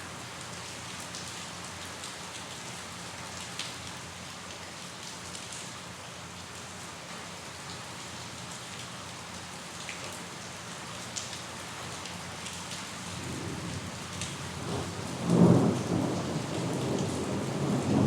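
Steady rain falling, with scattered drop ticks. Thunder rumbles in the last few seconds, swelling to a loud low roll.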